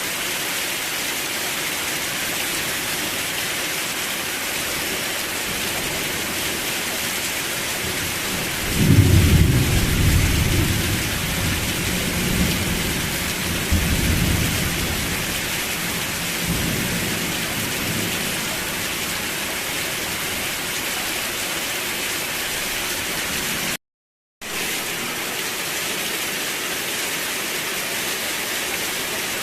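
Steady heavy rain with a long rumble of thunder that swells up about a third of the way in and rolls away in waves over several seconds. Near the end the sound cuts out completely for about half a second, then the rain resumes.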